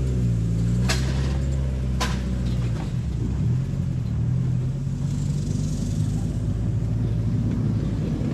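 Mazda Miata running down a rough road, engine and road rumble, with two sharp clanks from underneath about one and two seconds in. This is the unexplained underbody clank that the owner thinks may be a heat shield or the rear suspension.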